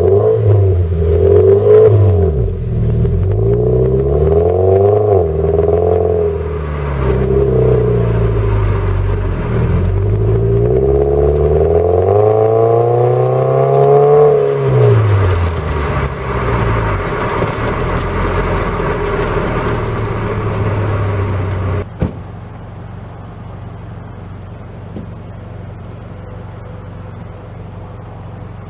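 Toyota 86's flat-four engine and Kakimoto Class KR aftermarket exhaust heard from inside the cabin, the revs climbing and dropping repeatedly as the automatic gearbox shifts, with one long climb about halfway through. The car then runs at a steady pitch until the sound drops suddenly to a quieter steady hum about 22 seconds in.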